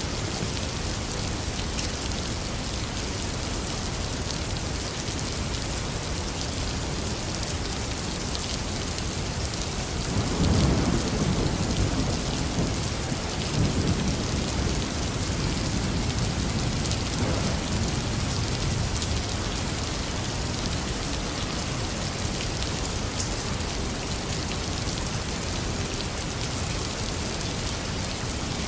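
Heavy rain falling steadily. About ten seconds in, a roll of thunder rumbles up, swells again a few seconds later and dies away over several seconds.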